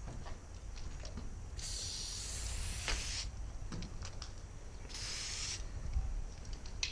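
Aerosol spray-paint can spraying in two bursts: a longer one of about a second and a half, then a short one about five seconds in, with small clicks between.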